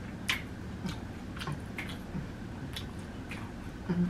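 Close-up chewing of crunchy fried food coated in crushed Flamin' Hot Cheetos, heard as about six scattered sharp crunches and mouth clicks over a steady low background hum.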